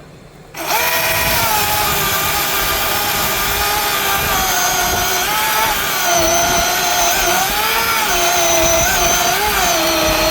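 Battery-powered chainsaw starting up and running at full speed, its motor whine dipping in pitch several times as the chain bites into the wood, then cutting off suddenly near the end as the battery runs flat.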